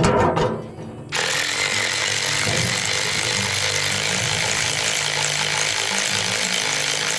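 Yacooda cordless electric ratchet running, a steady motor whir that starts suddenly about a second in and holds level, after a short clattering burst that dies away in the first second. Background music plays quietly underneath.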